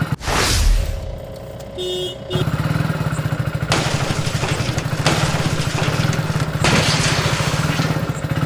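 A small vehicle engine chugging with a fast, even putter. About half a second in, a loud whoosh cuts across it. The engine drops away for about a second and a half, then resumes steadily until it stops abruptly at the end.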